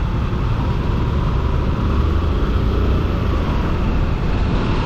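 Motorcycle riding at highway speed: a steady low rumble of wind and engine noise, heard from the moving bike.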